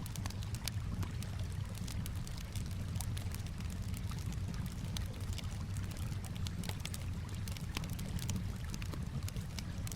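Campfire crackling with frequent sharp pops, over a steady low wash of gently moving water.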